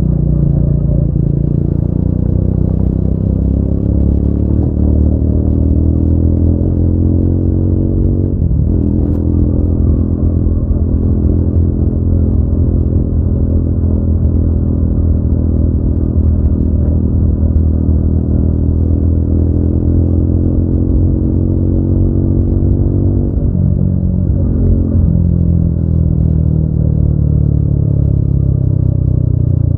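Triumph Speed 400's single-cylinder engine and exhaust running under way, the pitch climbing as it pulls, with a gear change about eight seconds in. It then rises slowly and steadily, changes gear twice a little after the three-quarter mark, and the pitch falls near the end as it eases off.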